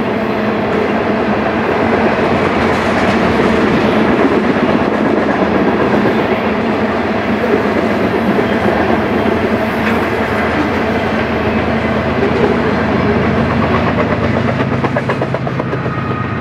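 BNSF tank car freight train rolling past, a steady loud rumble with wheels clicking over the rail joints. Near the end a set of BNSF diesel locomotives comes up, adding a deeper engine drone.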